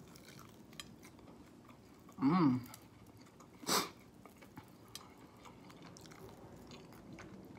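A person chewing a mouthful of KFC Original Recipe fried chicken, with soft wet smacks and small clicks. A short hummed "mm" comes about two seconds in and a brief breath just under four seconds in.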